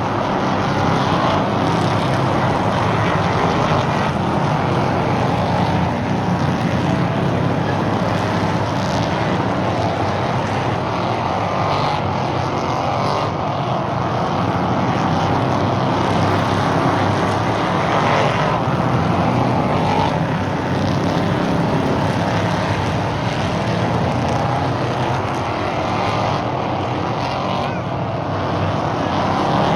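Stock cars racing around a short oval track, their engines running steadily at speed, with the sound swelling a little as cars pass.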